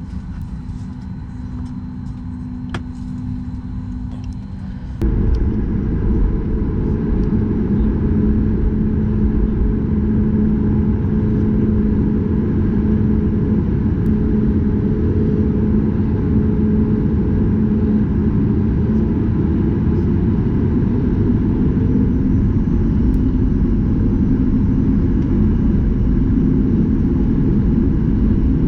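Boeing 737 MAX 8 cabin noise: a steady hum for the first few seconds, then about five seconds in a sudden jump to a louder, steady low rumble with a droning tone, the sound of the airliner's engines and airflow heard from inside the cabin.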